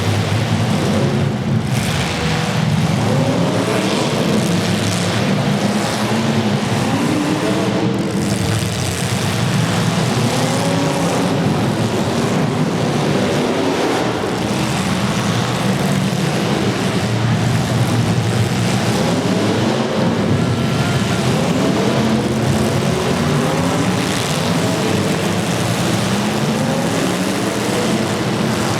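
Demolition derby cars' engines running hard, several at once, their pitch repeatedly rising and falling as they rev.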